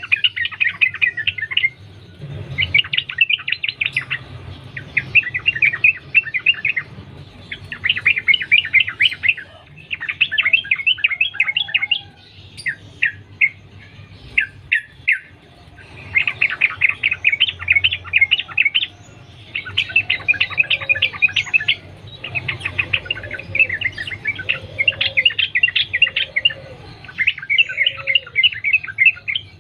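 Yellow-vented bulbul (trucukan) singing in long, rapid chattering phrases of a second or two each, one after another with short breaks between them.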